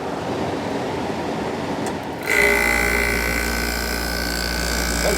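1972 Quiet Kool 10,000 BTU window air conditioner running with its fan on the highest 'super' speed. A bit over two seconds in, its Copeland compressor kicks on: a low hum and a steady high whine come in suddenly, and the unit runs louder from then on.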